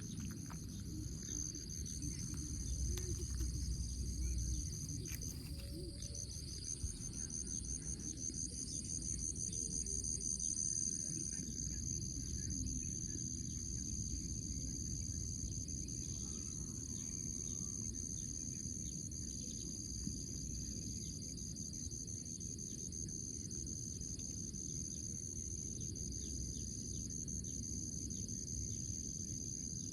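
Steady high-pitched chirring of insects, pulsing quickly at times, over a constant low rumble of background noise.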